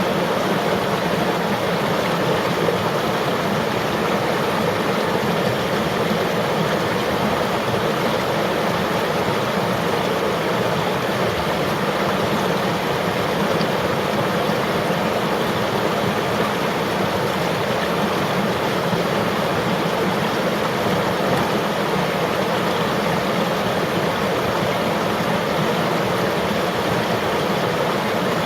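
River water flowing steadily: an even rushing and babbling with no breaks or distinct events.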